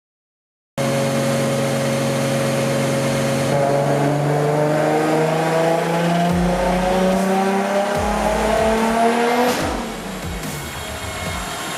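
Single-turbo RB26 inline-six of a Nissan Skyline R32 GT-R on a chassis dyno pull. The engine cuts in suddenly and runs steady for a few seconds, then its revs climb smoothly for about six seconds under full throttle and fall away as the throttle is lifted near the end.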